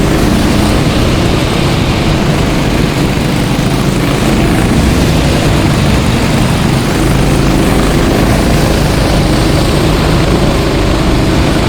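Go-kart engines running together as a pack of karts races around the track, a steady loud drone.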